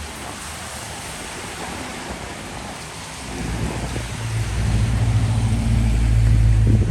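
Steady hiss of rain and wet street noise, then from about halfway in a heavy vehicle's engine approaches with a low, steady hum that grows louder to the end.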